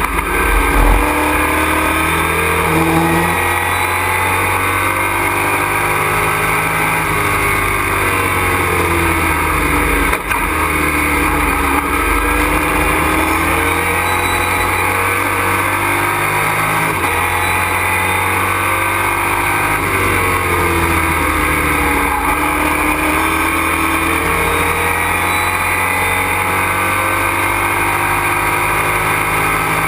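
Race truck's engine heard from inside the cockpit on track, revs rising and falling again and again through shifts and corners, over constant wind and road noise.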